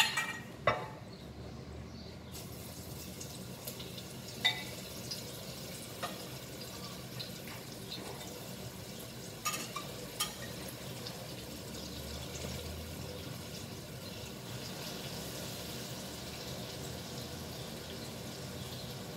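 Flour-dusted jiló strips sizzling in hot fat, the steady sizzle starting suddenly about two seconds in as the first pieces go into the pan. A fork or dish clinks sharply a few times as more pieces are added.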